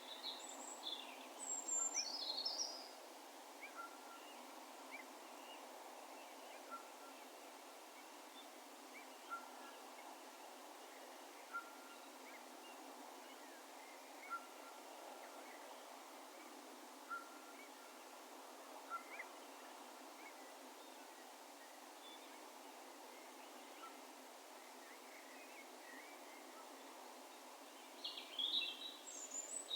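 Distant wild birds calling over a steady background hiss of open countryside: a cluster of high, quick chirps in the first few seconds and another near the end, with short faint notes every second or two in between.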